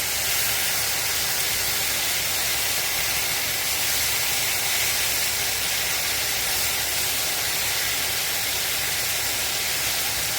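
Chicken, mushroom and onion frying in hot oil in a pan, sizzling with a steady hiss.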